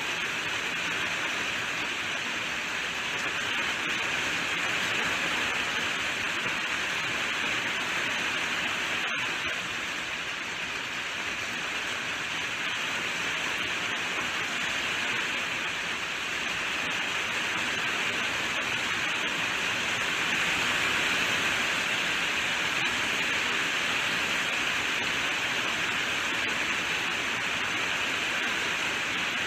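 Steady rainfall, an even hiss, with a momentary break about nine seconds in.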